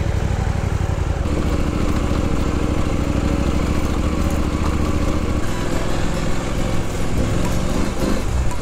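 Adventure motorcycle engine running steadily at low revs.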